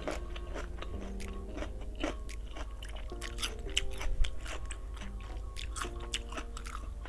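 Close-up mouth sounds of a person chewing food, with many small crisp crunches and clicks at an irregular pace. A simple background tune of held notes plays underneath.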